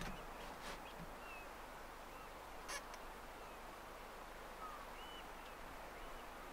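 Short, faint whistled calls of distant birds over the estuary, several times, over a steady hiss of wind and water. A few brief knocks, the loudest about three seconds in.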